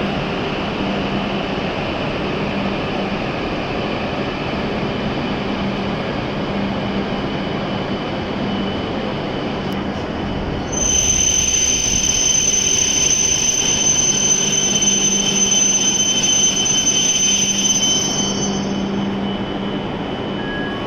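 W7 series Shinkansen train rolling slowly in with a steady hum. About halfway through, a high-pitched brake squeal starts suddenly, then dies away as the train comes to a stop.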